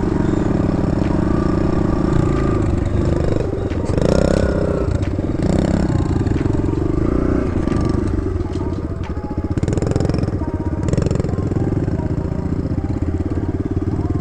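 Kawasaki KLX110 dirt bike's small four-stroke single-cylinder engine running at low speed while being ridden, its pitch rising and falling as the throttle opens and closes.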